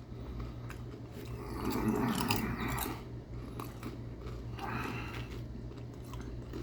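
A man chewing a bite of barbecue chicken sandwich, in two louder stretches about two and five seconds in, with small wet clicks between. A low steady hum runs beneath.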